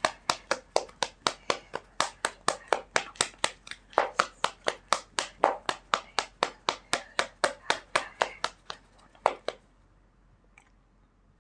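A deck of tarot cards being shuffled by hand, the cards slapping together in a quick, even rhythm of about four to five slaps a second that stops about nine seconds in.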